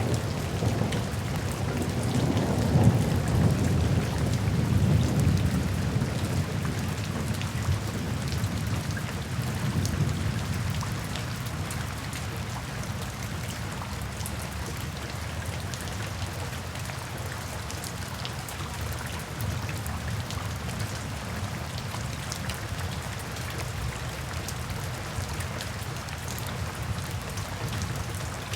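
Steady rainfall with a long low rumble of thunder that swells over the first few seconds and fades away after about ten seconds, leaving an even patter of rain.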